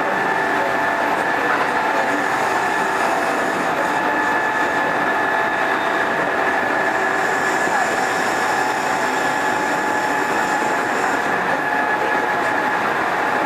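Kintetsu 2430 series electric train running at steady speed, heard from inside the passenger car: a constant rumble of wheels and running gear with a steady whine held at one pitch.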